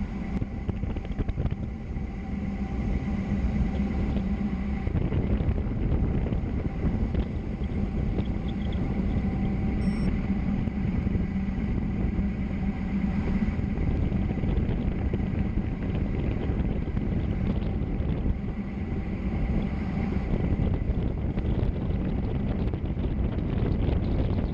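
Steady rush of wind and road noise on the microphone while travelling fast downhill, with a faint steady hum under it.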